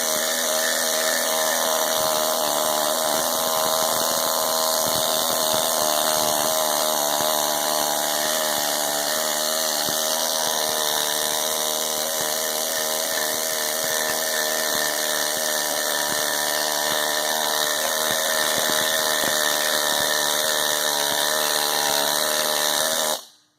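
Handheld power tool running steadily as it strips old paint off a small-block Chevy's cast-iron engine block, then cutting off suddenly near the end.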